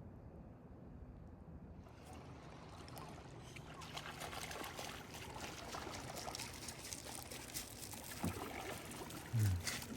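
Lake water lapping and trickling: a dense patter of small splashes that sets in about two seconds in and grows. A short low voice sounds near the end.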